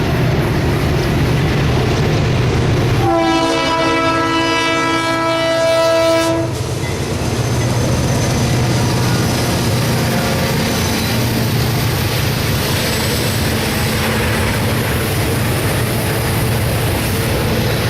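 Diesel locomotive horn on a CSX autorack freight train sounds one long blast about three seconds in, lasting roughly three seconds. A steady rumble and clatter of the train's wheels on the rails continues throughout.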